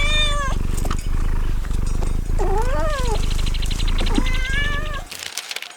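Domestic cat meowing three times over a steady low purr, which stops abruptly about five seconds in.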